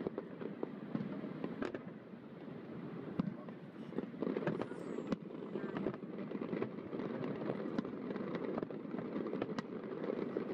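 Fireworks going off: a steady run of pops and crackles, with sharper bangs scattered through.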